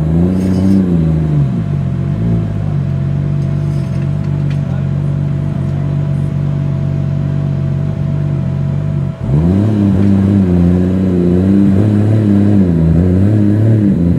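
Car engine running: a short rev, then steady idle, then after a sudden break about nine seconds in, several light revs rising and falling.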